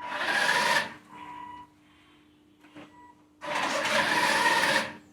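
Small electric motors of a home-built humanoid robot whirring in two bursts as it moves. The first burst lasts about a second, the second about a second and a half near the end. A steady high whine carries on between them.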